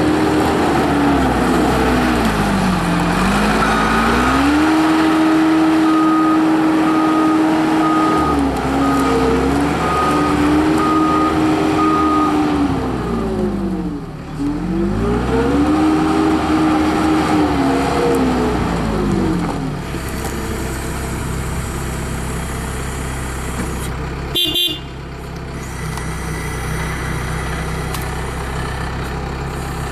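Case 450 skid steer loader's turbo diesel engine running while the machine is worked, its pitch dropping and climbing back several times as the revs change, then settling to a steadier run in the second half. A reverse beeper sounds in regular beeps for several seconds in the first half, and there is a brief knock about three-quarters of the way through.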